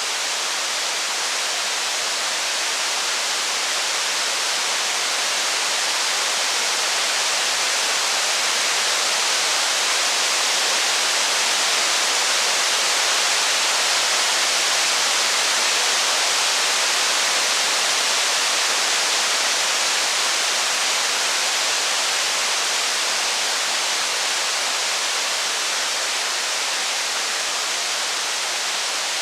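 Steady rain, an even hiss with no crackles or thunder, swelling slightly toward the middle and easing again.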